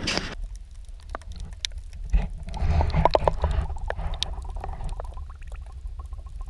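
Wind rumbling on the microphone with water lapping and gurgling against a kayak hull, and scattered small knocks and clicks.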